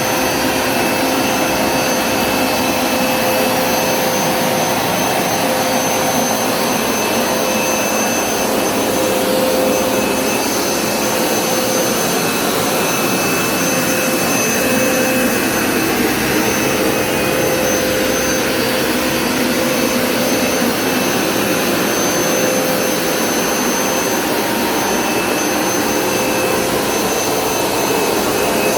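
Hoover Smartwash Pet Complete carpet cleaner running steadily: a continuous rush of suction with a motor whine whose tones come and go.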